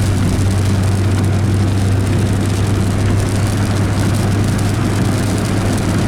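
Steady road and engine drone heard from inside a moving car, with a constant low hum and an even wash of tyre and wind noise.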